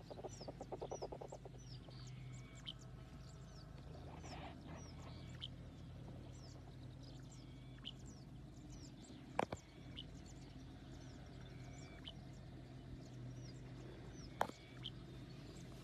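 Small birds chirping again and again with short, high, falling notes over a low steady hum. A rapid run of clucking notes sounds in the first second or so, and two sharp clicks come about nine and fourteen seconds in.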